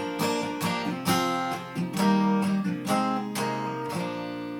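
Acoustic guitar strummed at about two strokes a second, then a last chord left ringing and slowly fading.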